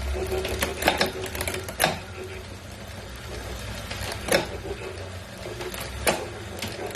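Wahoo Kickr V5 smart trainer running with a steady hum and a grinding noise, with sharp clicks: several in the first two seconds, then single ones about four and six seconds in. The grinding is a fault in a new unit, in the owner's view.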